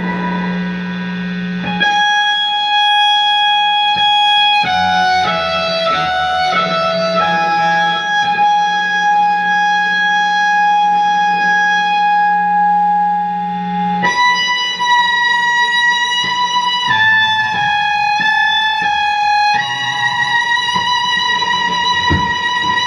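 Live instrumental rock passage: an electric violin plays long held notes that change pitch every few seconds, over guitar and a steady low drone.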